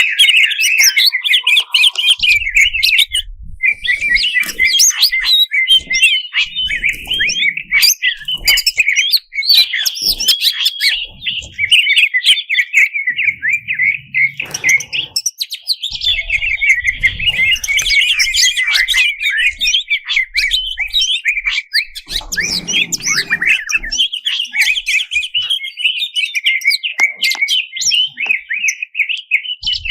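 Cucak cungkok leafbird singing a fast, unbroken jumble of high chirps and trills, a few short breaks between its runs.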